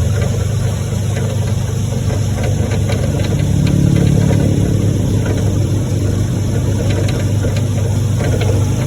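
Vehicle engine running steadily, growing louder for a second or two near the middle.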